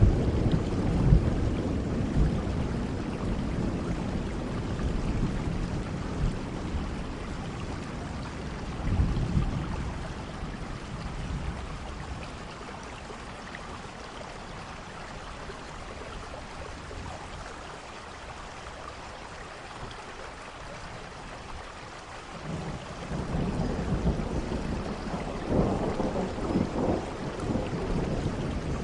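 Steady rain with rolling thunder: a rumble dies away at the start, another briefly swells about nine seconds in, and a longer one builds near the end.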